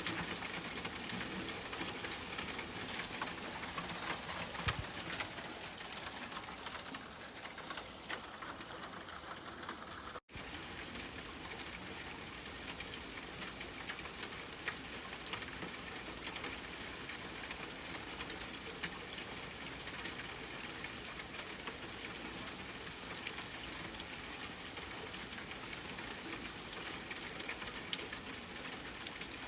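Steady rain with many separate drops ticking and pattering. The sound cuts out completely for an instant about ten seconds in.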